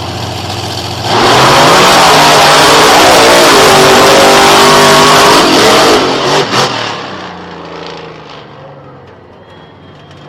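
Monster truck engine going from idle to full throttle about a second in and running flat out for about five seconds with its pitch climbing. The throttle then shuts suddenly with a couple of loud pops, and the engine drops back toward idle.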